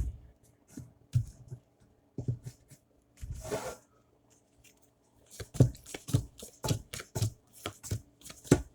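Tarot cards being handled and shuffled: a few soft clicks, a brief rustling swish, then a quick run of card slaps and taps, about three or four a second, from about five seconds in.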